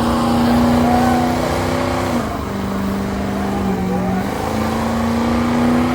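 Truck engine held at high revs, its note dropping a little about two seconds in and climbing back up about two seconds later.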